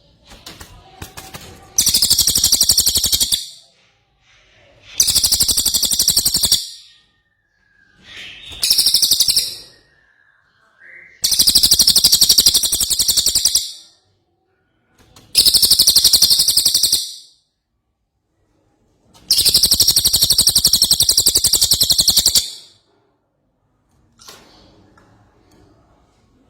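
A cililin (cinereous tit) singing in six loud bursts of rapid, high, chattering repeated notes, each lasting one to three seconds with short pauses between.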